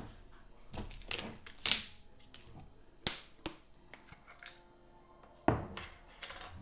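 A scattering of short clicks and knocks, about six in all, the sharpest about three seconds in and again near the end, from items being handled and set down while a sandwich is built on a kitchen counter.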